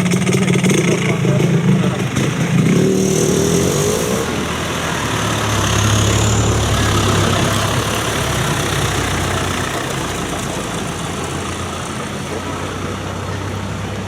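Tractor engines running. About three seconds in one rises in pitch as it revs up, then a deeper engine grows louder around six seconds and slowly fades away.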